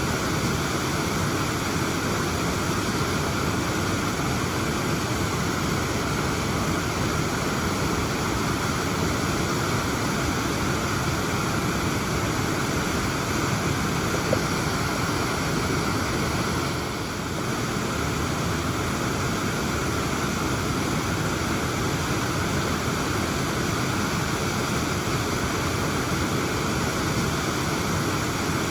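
Whitehorse Falls waterfall: water falling and splashing in a steady, even rush.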